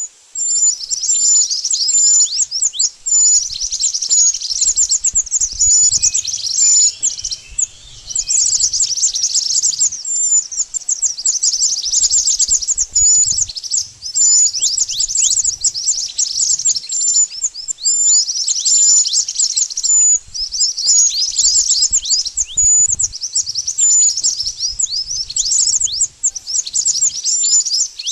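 Mantenan bird calling: a dense run of rapid, high-pitched chirps, each a quick downward sweep, coming in bursts with brief pauses.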